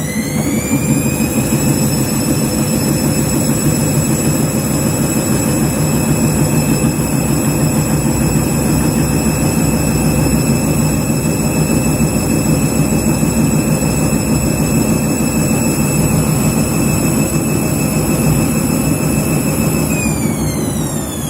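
Washing machine drum spinning with the motor whining. The whine climbs to speed in the first second, holds steady over a low rumble, then winds down near the end. This is a short spin of a machine dosed with double detergent and going into a suds lock.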